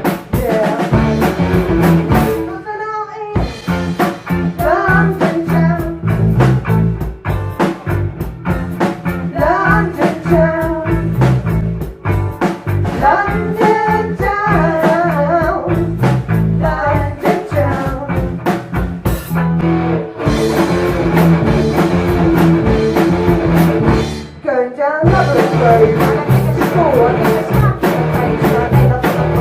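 Live blues-rock band playing, with drums, bass and electric guitar carrying a wavering lead line. The band stops short for a moment about three seconds in and again about 25 seconds in.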